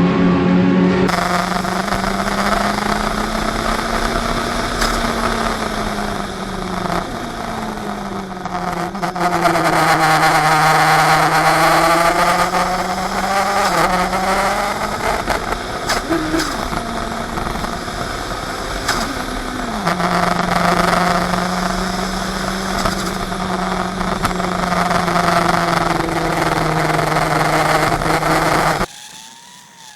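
Race car engine running hard on track, heard from on board with a heavy rush of wind and road noise. The engine note rises and falls slowly as the car laps, then cuts off suddenly near the end.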